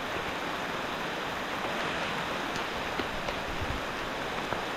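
A flooded, muddy creek rushing over its banks under heavy rain: a steady wash of water noise, with a few light ticks scattered through it.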